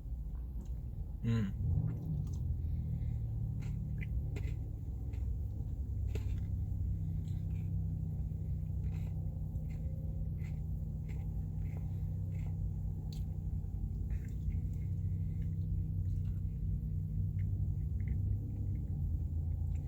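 A person eating ice cream, with soft chewing and mouth sounds and scattered light clicks, over a steady low hum.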